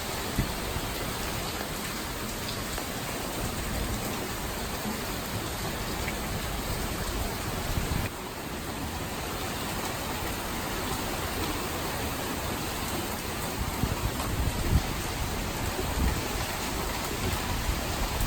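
Heavy typhoon rain falling steadily, a dense even hiss, with a few low buffets of wind on the microphone near the end.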